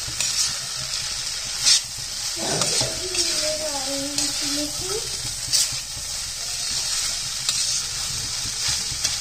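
Vegetable fried rice with peas, carrot and tomato sizzling in a wok as a spatula stirs and scrapes through it. A few sharper scrapes of the spatula against the pan stand out, the loudest about two seconds in and again past the middle.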